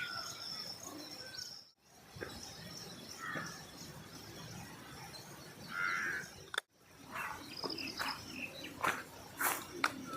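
Outdoor birdsong: small birds chirping, with a steady high insect or bird trill. The sound drops out briefly twice, where the clips are cut together, and there is one louder call just before the second cut.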